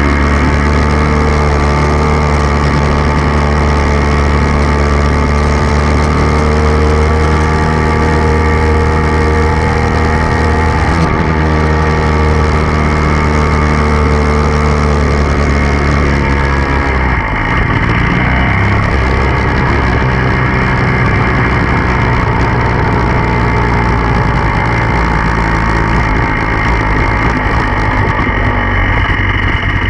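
Dirt bike engine running continuously at a fairly steady speed, its note changing about halfway through.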